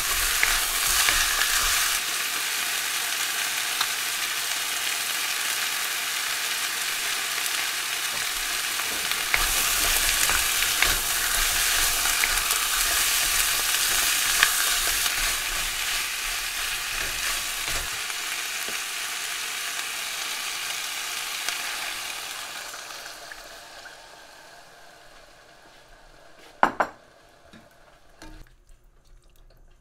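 Chicken legs and chopped onion sizzling in hot oil in a nonstick wok, stirred with a wooden spatula. The sizzle fades away about three-quarters of the way through, and a sharp knock follows near the end.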